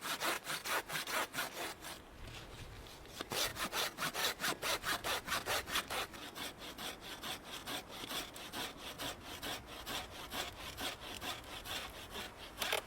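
Hand saw cutting through wood in quick back-and-forth strokes, with a short pause about two seconds in; the strokes turn lighter in the second half.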